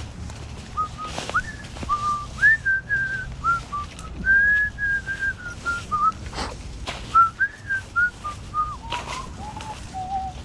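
A person whistling a tune in a string of short notes that rise and fall, dropping lower near the end. A few brief knocks or rustles come in between.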